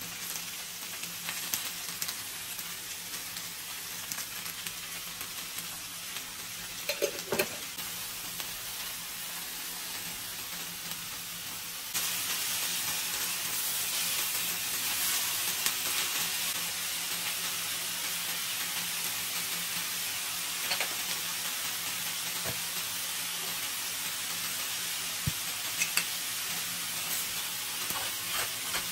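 Chopped napa cabbage stir-frying in a skillet: a steady sizzle with a few sharp taps of chopsticks against the pan. The sizzle jumps louder suddenly a little before halfway.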